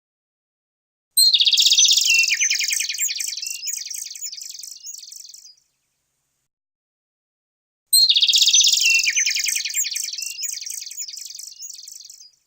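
A songbird sings two long phrases, one about a second in and another about eight seconds in. Each starts loud and high, then runs into rapid trills that step lower and fade away.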